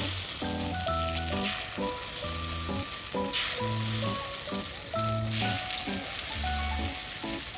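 Food sizzling as it fries, a steady hiss that swells now and then, under background music with a melody and bass line.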